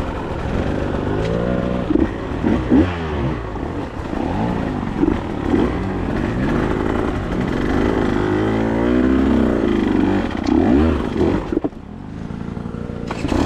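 Motorcycle engine under way, its pitch rising and falling over and over as the throttle is opened and closed. Near the end it drops off briefly to a lower, quieter run, then picks up again.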